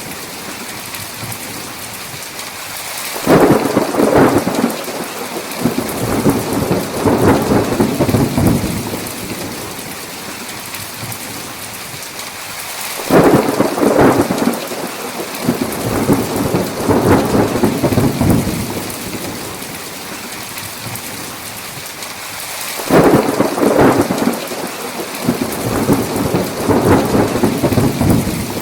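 Thunderstorm: steady heavy rain with three rolls of thunder about ten seconds apart. Each roll breaks in suddenly and rumbles on for about five seconds.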